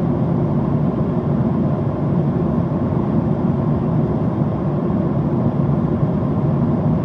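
Steady cabin noise of a Boeing 767-400ER airliner in flight: an even, low rushing sound that does not change.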